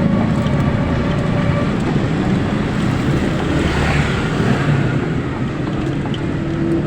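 Vehicle travelling along a road: steady engine and road rumble with some wind noise, and a brief swell of hiss about four seconds in.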